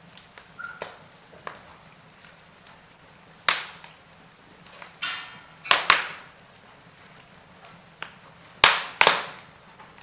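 Wood fire burning in a fireplace: irregular sharp pops and cracks from the burning logs over a faint steady hiss, with the loudest snaps about a third of the way in and near the end.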